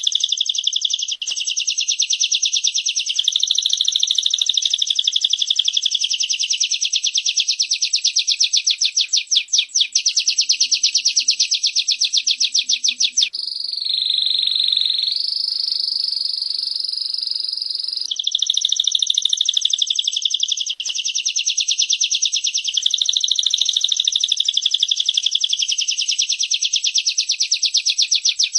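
Female bar-winged prinia (prenjak) and canary calls: a loud, fast, very even trill of sharp high-pitched notes. About halfway through, the trill gives way for four or five seconds to a long steady whistle that dips slightly, then the rapid trill returns.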